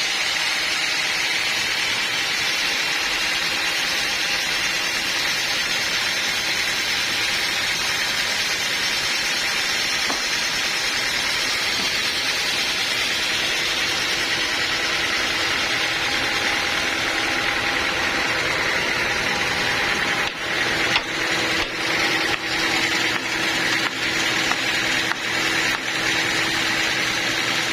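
Sawmill running while sawing a redwood log: a steady, loud mechanical noise of engine and blade. In the last third a steady hum joins in and the sound starts to dip and surge unevenly.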